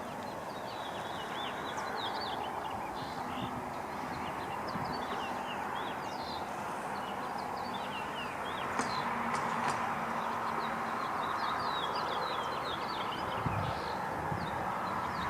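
Many small birds chirping continuously in quick, short notes over a steady background hiss.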